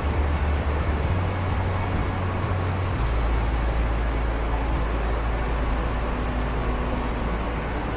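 Large waterfall swollen with snowmelt: a steady, loud rush of falling water with a deep rumble underneath that shifts in strength about a second and three seconds in.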